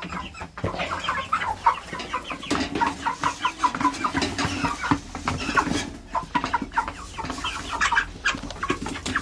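A flock of broiler chickens clucking and calling continuously in many short overlapping calls; the birds are hungry and waiting for feed.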